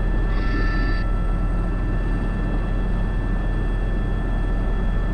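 Airbus H125 (AS350 B3) helicopter in flight with a sling load, heard from the cockpit: a steady low rotor thrum under the steady whine of its turboshaft engine, with a brief hiss about half a second in.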